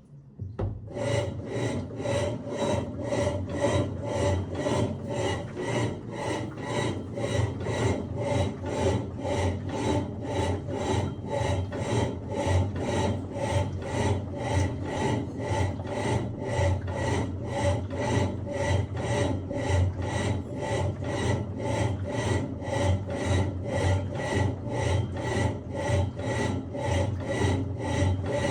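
Electrolux LTE08 8 kg top-loading washing machine agitating a load of bed and bath linens: a rhythmic swishing and rubbing of wet laundry and water, about two strokes a second, starting about a second in.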